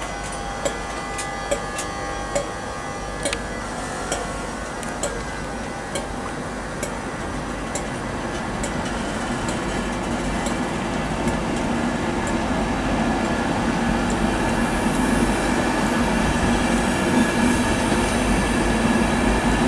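LNER InterCity 225 train pulling away from the platform, pushed by its Class 91 electric locomotive at the rear. Its wheels click over the track about once a second for the first half while the running noise builds steadily louder as it gathers speed.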